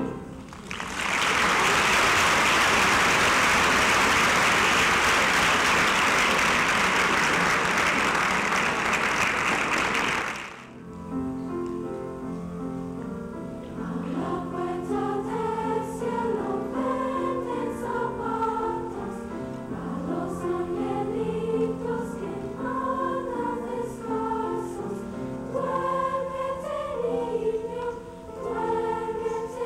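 An audience applauding for about ten seconds; the applause stops, and a school choir starts singing, with sustained low notes under the moving vocal lines.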